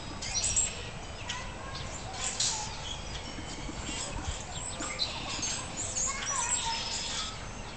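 Songbirds chirping and calling: many short, high chirps and quick whistled notes, coming one after another.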